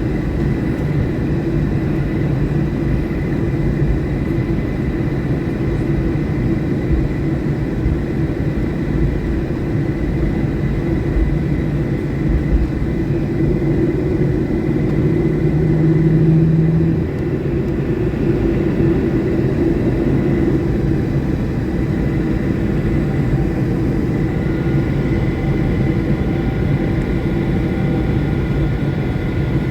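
Steady cabin noise inside a Boeing 737-800: the rumble of its CFM56 jet engines and airflow, with faint steady engine whine tones. About halfway through it swells briefly with a low hum, then drops back suddenly.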